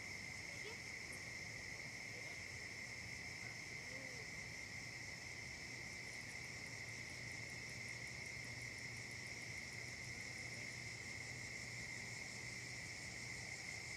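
Steady chorus of crickets and other insects: a constant high trill, with a fainter, faster pulsing trill higher up joining about six seconds in.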